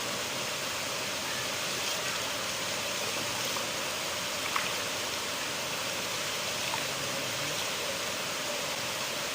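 River water flowing in a steady rushing wash, with a faint splash or drip now and then.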